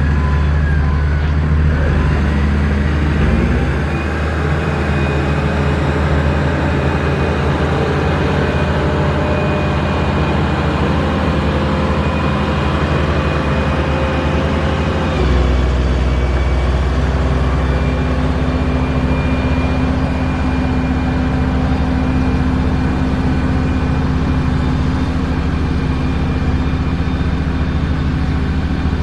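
Heavy diesel engine of road-construction machinery running steadily under load. The engine note shifts about four seconds in, and the low rumble grows stronger about halfway through.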